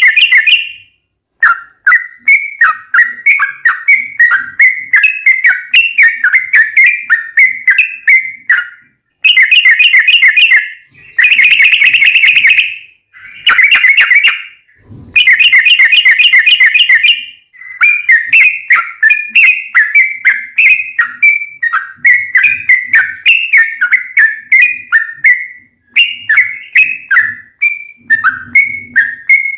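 Yellow-vented bulbul (trucukan) singing a long, rapid run of loud chirping notes, given in several bursts with short breaks between them.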